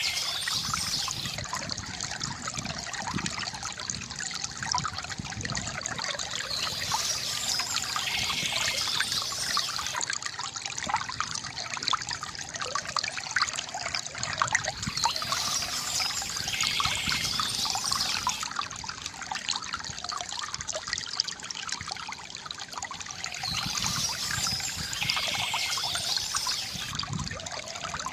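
Water trickling and gurgling from a bamboo fountain, a steady flow with many small splashes.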